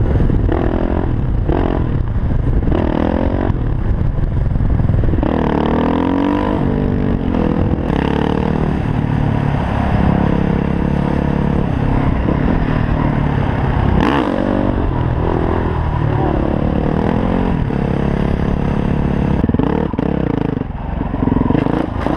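Yamaha WR450F supermoto's single-cylinder four-stroke engine being ridden hard, its revs rising and falling again and again as the throttle is worked. Heavy wind rumble sits on the helmet-mounted microphone.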